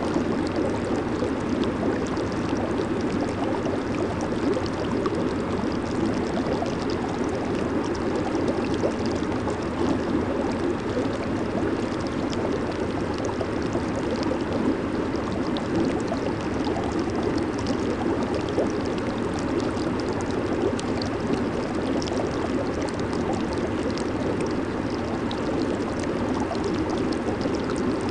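Jacuzzi (hot tub) water churning and bubbling: a steady rushing bubble noise with a low hum underneath.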